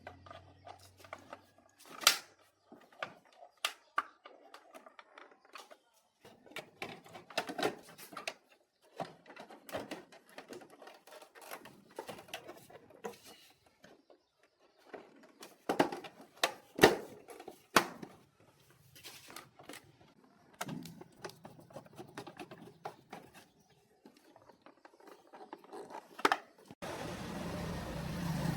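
Irregular clicks, knocks and light scraping of metal parts and tools being handled and worked by hand. Near the end a steady machine running sound starts abruptly.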